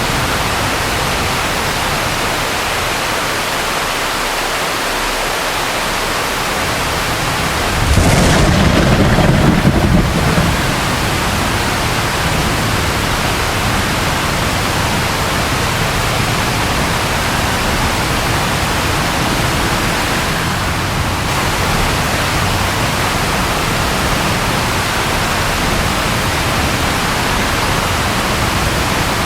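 Steady rain with one thunder clap about eight seconds in, its low rumble lasting two to three seconds.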